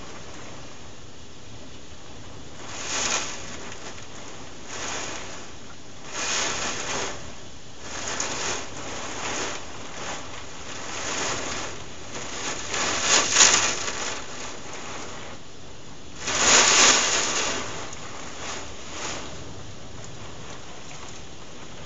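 Heavy thunderstorm rain pouring down, swelling and easing in gusts every second or two; the strongest gusts come about two-thirds of the way through.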